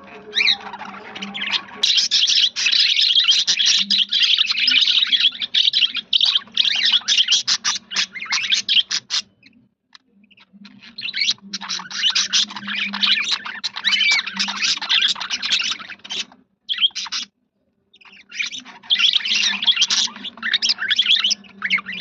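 A flock of budgerigars chattering and warbling together, with many rapid overlapping chirps. The chatter breaks off about halfway through and again briefly near the end, then resumes.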